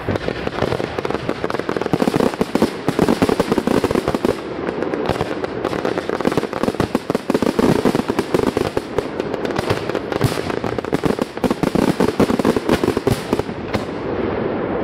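Fireworks display: a dense barrage of aerial shells bursting, bang after bang in quick succession without a break.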